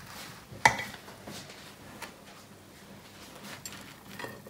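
A serving spoon clinking against a pot and the ceramic platter as cooked rice is spooned out: one sharp clink about two-thirds of a second in, then a few fainter taps.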